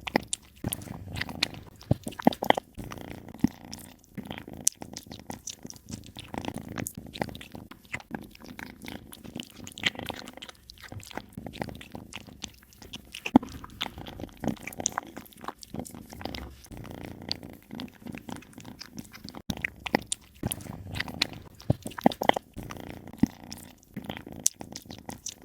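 A cat chewing and biting its food close to the microphone: an irregular run of short, sharp chewing clicks and mouth sounds.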